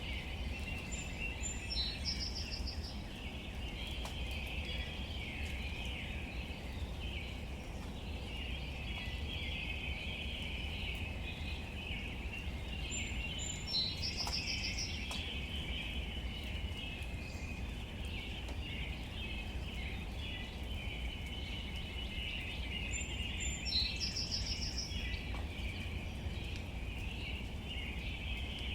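Outdoor nature ambience: a bird sings a short, high phrase of quickly repeated notes three times, about ten to twelve seconds apart, over a continuous high chirping chorus of birds or insects and a steady low rumble.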